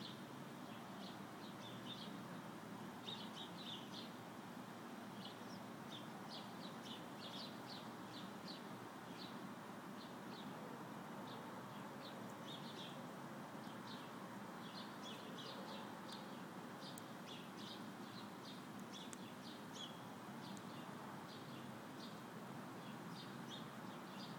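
Small songbirds chirping: many short, high chirps, some in quick runs, over faint steady background noise.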